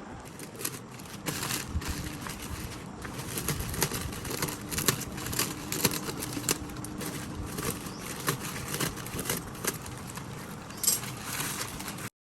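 Irregular sharp clicks and knocks of hand work on a tractor tyre, over a steady low noise. The sound cuts off abruptly near the end.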